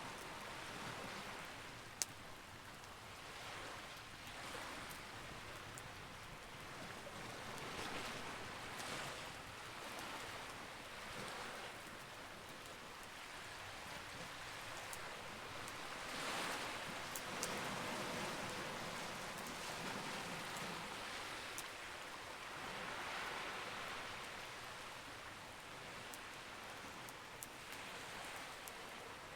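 Campfire burning, a steady rushing hiss that swells and fades every few seconds, with a few sharp crackling pops, the clearest about two seconds in.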